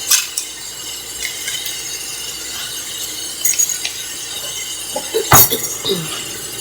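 Kitchen clatter: a few sharp clinks of dishes and utensils, the loudest about five seconds in, over a steady background hiss.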